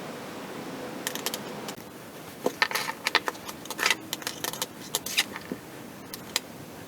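Small hard parts of a 3D-printed balisong clicking and rattling as they are handled: a quick, irregular run of sharp clicks and knocks.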